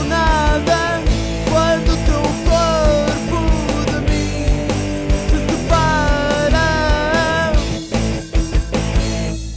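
Rock band playing an instrumental passage, with drums and bass under a sliding lead melody. Near the end the band breaks into a few separate accented hits, and the sound then fades.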